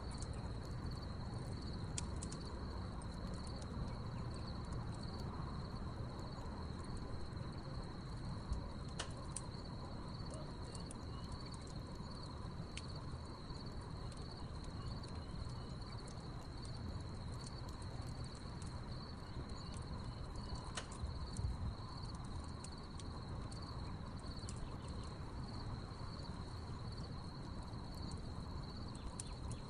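Crickets chirping in a steady high trill over a crackling wood fire, whose scattered sharp pops and snaps come at random, a couple standing out louder, with a low rumble beneath.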